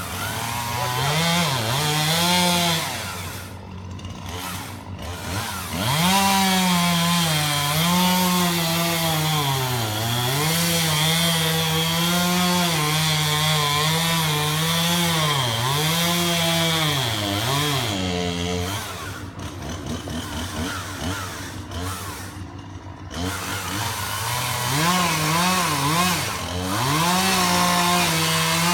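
Chainsaw running at high revs and cutting wood. Its engine note dips briefly several times and eases off twice for a few seconds before revving back up.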